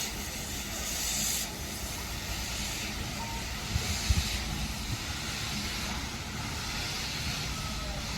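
Steam hissing from a 2-6-6-2T articulated tank steam locomotive: a steady hiss over a low rumble, with a few short low thumps about four seconds in.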